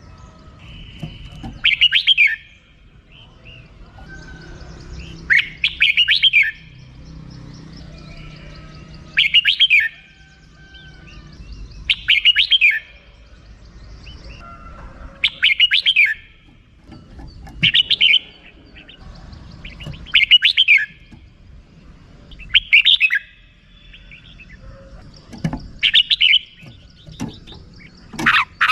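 Red-whiskered bulbul giving its harsh 'rik' call: short bursts of rapid, chattering notes repeated about every two to three seconds.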